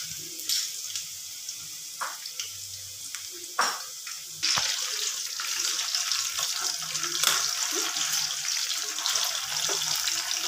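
Battered chicken pieces deep-frying in hot oil in a kadai. There are scattered pops and crackles at first, then about four and a half seconds in a sudden, steady, louder sizzle.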